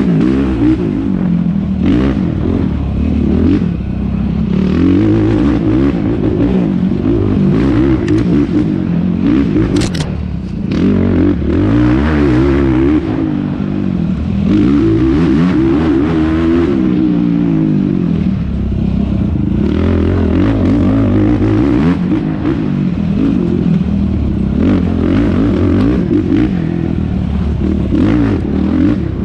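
Yamaha YFZ450R race quad's single-cylinder four-stroke engine revving hard, its pitch rising and falling constantly, heard from a helmet or onboard camera. There is one sharp knock about ten seconds in.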